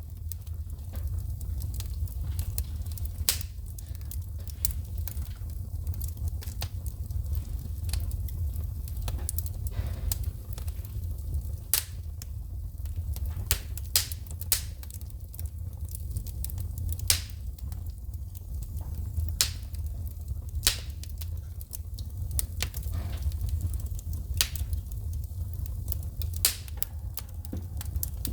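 Wood fire crackling in a fireplace, with sharp pops and snaps from the burning logs at irregular intervals, several a second at times, over a steady low rumble of the flames.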